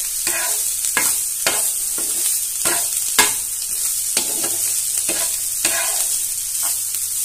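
Chicken pieces with onion frying and sizzling on a hot flat tawa while a metal spatula stirs and scrapes them across the pan, with a scrape about every half second over the steady sizzle.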